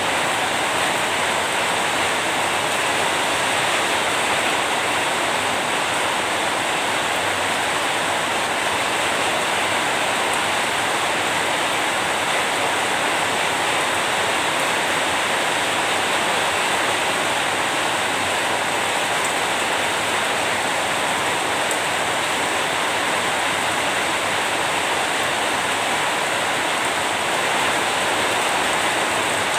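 Steady rain falling, an even unbroken hiss of water with no separate drops or thunder standing out.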